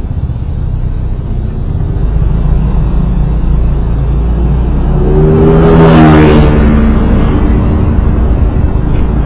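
Steady low rumble of road and engine noise from a moving vehicle in traffic. About five to seven seconds in, another motor vehicle's engine passes close by, swelling to its loudest near six seconds and then fading.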